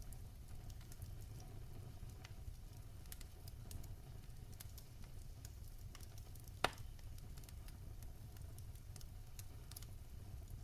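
Fire crackling in a fireplace: a low steady rumble of the flames with scattered small crackles and one loud, sharp pop about six and a half seconds in.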